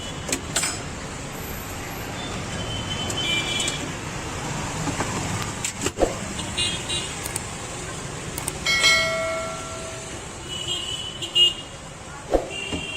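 Street traffic running past, with horns sounding several times: short high beeps and one longer, lower honk about nine seconds in. A few sharp knocks stand out over the traffic.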